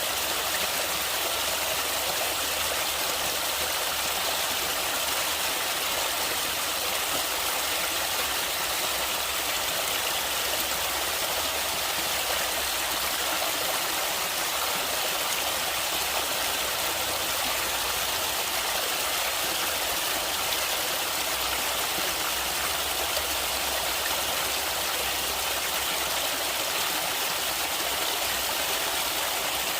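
Flowing water of a river or stream running steadily, an even rush with no breaks or changes.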